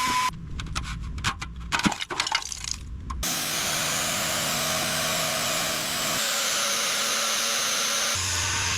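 Rust being stripped from car body metal with power tools: a stretch of crackling and scraping clicks, then about three seconds in a steady abrasive hiss that runs on evenly.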